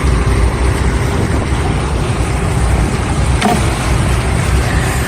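Boat engine running steadily, a low rumble with wind on the microphone, and a single brief knock about three and a half seconds in.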